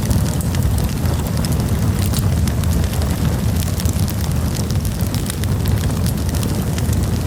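Campfire burning: wood crackling and popping in many quick, sharp snaps over a steady low rumble.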